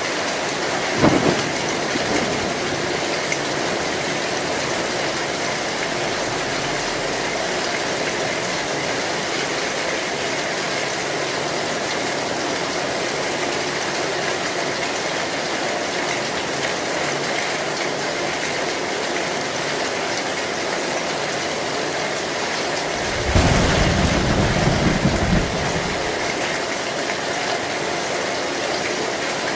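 Heavy rain falling steadily on an old metal sheet roof, with a brief sharp crack about a second in and a louder low rumble of thunder lasting about two seconds near the end.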